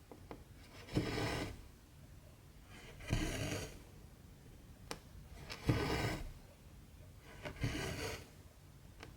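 Cotton embroidery thread drawn through 14-count cross-stitch fabric: four short rasping swishes, one every two seconds or so, with a single sharp tick in between as the needle goes through the cloth.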